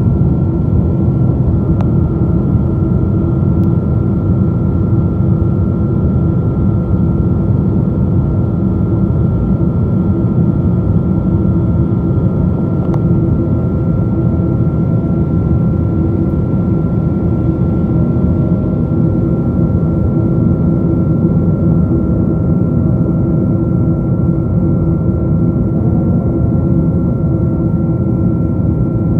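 Steady jet engine and airflow noise inside the cabin of a Boeing 777-222 airliner: a loud, even low rumble with a steady whine on top.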